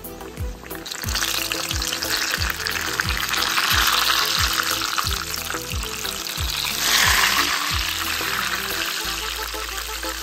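Chebureki frying in hot oil in a pan: a loud, dense sizzle that starts about a second in, swells twice and eases near the end. Background music with a steady bass beat plays underneath.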